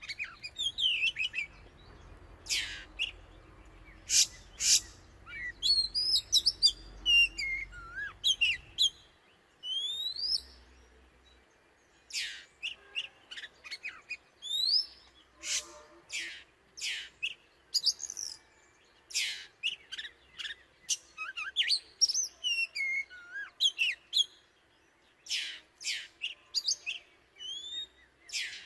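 Oriental magpie-robin singing: a varied, continuous run of short whistled phrases that sweep up and down, mixed with sharp high notes. The title calls this the male's mating song.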